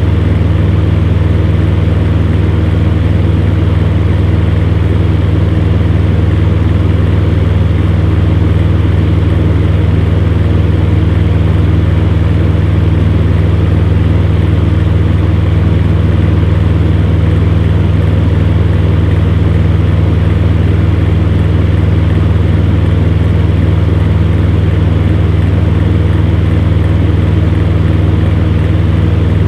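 Electric fan heater running: a steady low hum under an even rush of air, unchanging throughout.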